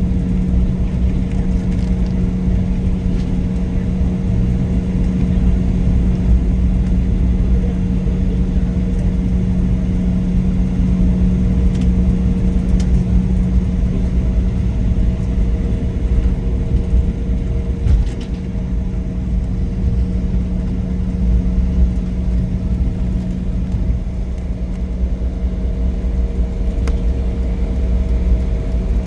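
Steady cabin drone of an Embraer E175 regional jet taxiing after landing: a low rumble under a constant hum from the engines at idle, with a few faint ticks.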